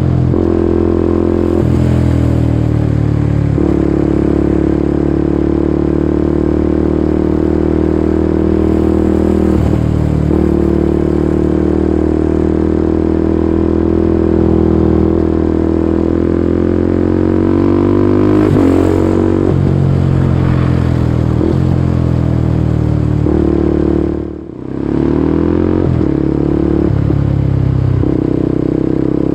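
Kawasaki Ninja 250SL's single-cylinder engine through a KEA Speed aftermarket exhaust, running loudly. Its pitch rises and falls, with several sudden jumps and a longer climb in the middle. The sound dips briefly about 24 seconds in.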